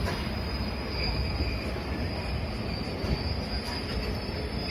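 Passenger train rolling slowly through a junction, with a low rumble and a thin, high, steady wheel squeal.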